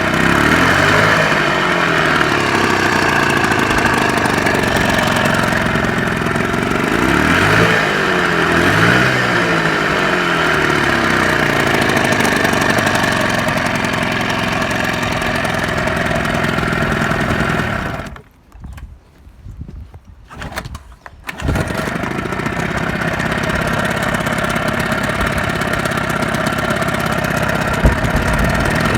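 1980s Johnson 15 hp two-stroke outboard motor running, revved up and back down a few times in the first ten seconds. It cuts out for about three seconds past the middle, then is running steadily again.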